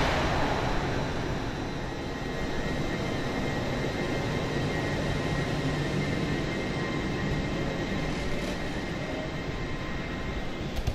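LNER Hitachi Class 800 Azuma train running slowly at the platform: a steady hum with a faint high whine.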